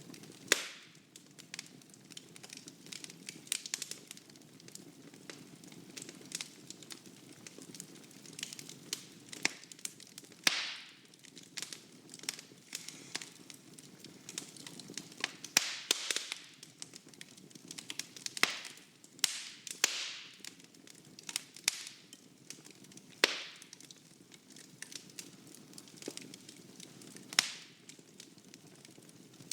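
Wood fire burning in a fireplace: irregular crackling and sharp snaps of the burning wood, a handful of them loud, over a low steady rumble of the flames.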